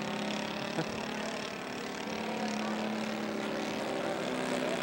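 Radio-controlled scale model airplane's engine running steadily, its pitch stepping up a little near the end.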